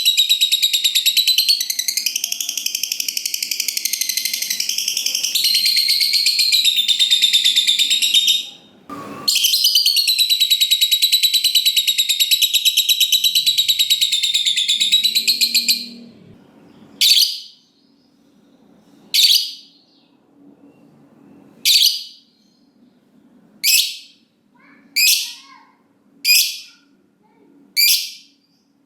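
Lovebird's 'ngekek': a long, rapid, high-pitched chattering trill that runs for about sixteen seconds, broken once by a sharp knock about halfway. After that comes a series of single sharp chirps, about one every two seconds.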